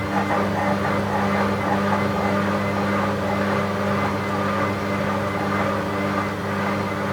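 Bauknecht WA 7778 W washing machine running steadily, its motor and drum giving an even, loud hum with a constant pitch. The machine had a developing drum bearing fault, which the owner says was not yet bad at this stage.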